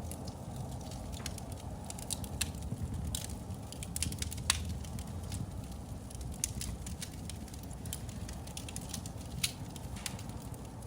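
Wood fire burning in a fireplace, with a steady low rumble of flames and irregular sharp crackles and pops, the loudest pop about halfway through.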